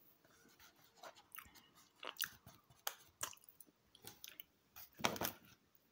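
Someone chewing a chocolate-chip cookie close to the microphone: faint, irregular crunches, the loudest about five seconds in.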